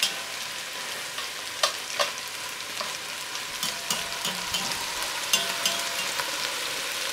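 Broccoli rabe sizzling steadily as it sautés uncovered in an enameled Dutch oven, stirred with metal tongs that click lightly against the pot a dozen or so times.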